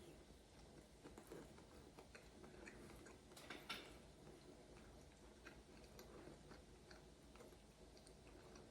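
Faint chewing of a quesadilla: soft, scattered mouth clicks and smacks, with a slightly louder click about three and a half seconds in.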